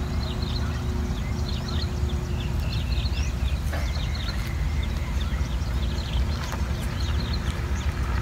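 Small birds chirping in short, repeated clusters of high notes over a steady low rumble, the rumble typical of wind buffeting the microphone as a storm approaches.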